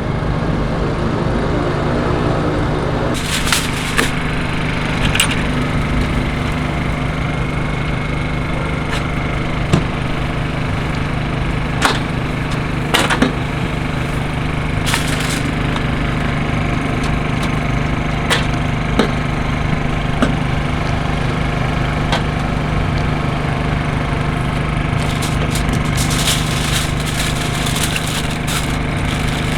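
A motor or engine runs with a steady mechanical hum, and scattered sharp clicks and knocks sound over it.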